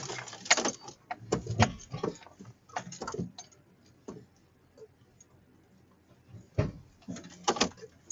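A series of irregular knocks, clunks and rattles in several clusters, the loudest in the first second and another pair near the end.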